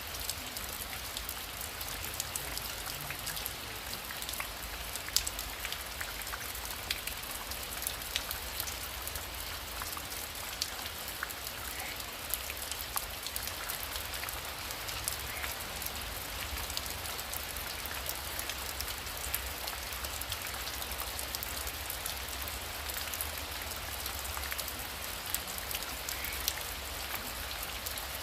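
Heavy rain falling steadily, with many sharp individual drop impacts ticking through a continuous hiss and a low rumble underneath.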